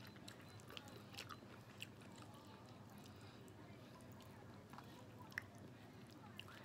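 Faint close-up chewing with the mouth closed: soft wet mouth clicks and smacks, scattered irregularly, with one sharper click a little over five seconds in.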